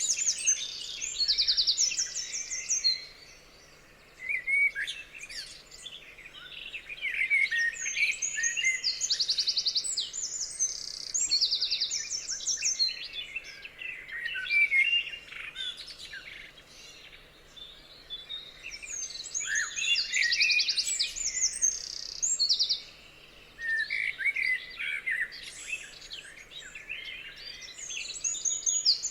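Several birds singing and calling together, fast buzzy trills and quick chirps overlapping, with a couple of short lulls.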